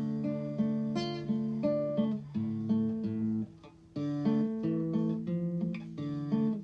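Background music: acoustic guitar picking notes in a steady rhythm, with a brief drop in level about three and a half seconds in.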